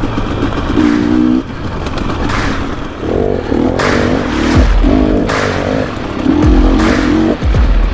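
Dirt bike engines revving and accelerating hard, with the pitch stepping up and down as the clips change abruptly.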